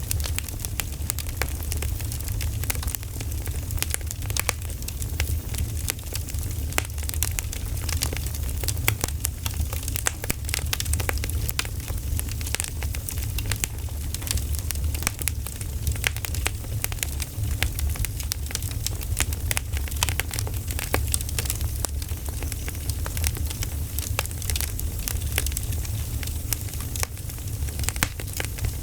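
Campfire crackling: a dense, irregular run of small sharp pops and snaps over a steady low rumble.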